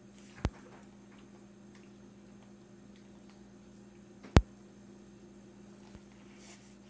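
A toddler quietly eating corn on the cob, with faint chewing ticks over a steady low electrical hum. Two sharp clicks stand out, one near the start and a louder one about four seconds in.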